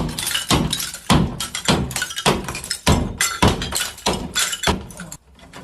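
A steady series of heavy thuds, a little under two a second, each with a short low ring after it, stopping shortly before the end.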